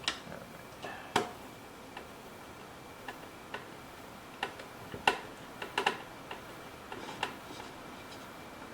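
Small screwdriver driving a screw into a humidifier's plastic base: irregular sharp clicks and taps of the tool and plastic parts, a dozen or so, some in quick pairs.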